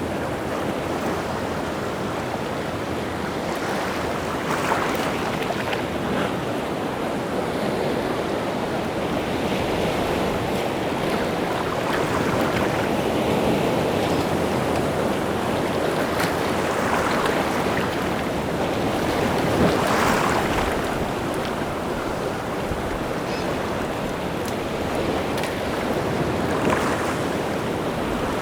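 Rough sea surf breaking continuously on a rocky shore, a steady wash that swells and eases, with occasional sharper crashes of a breaking wave (the loudest about twenty seconds in). Some wind mixes in.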